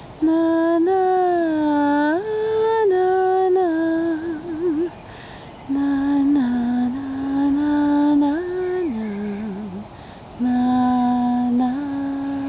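A woman humming a slow Cape Verdean lullaby without words: long held notes that step up and down, in three phrases with short breaks between them. Some phrase ends waver in a light vibrato.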